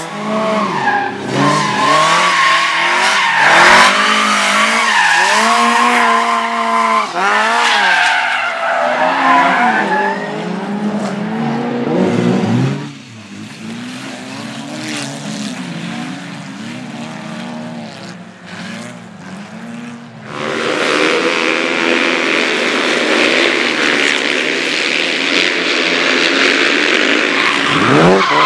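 Race car engine revving up and dropping back repeatedly through gear changes, quieter for several seconds in the middle. About two-thirds of the way in, loud tyre skidding comes in over the engine and carries on to the end.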